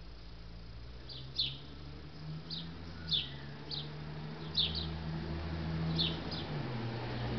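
A small bird calling in short, high chirps that fall in pitch, coming irregularly about one to two a second, over a low steady hum.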